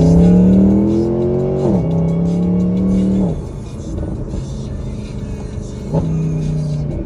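Mercedes-Benz SLS AMG's 6.2-litre V8 through a valved Valvetronic exhaust, accelerating with rising pitch until an upshift drops it sharply about two seconds in. It pulls again briefly, drops off about three seconds in and runs lower. Near the end there is a short sharp blip before it settles to a steady tone.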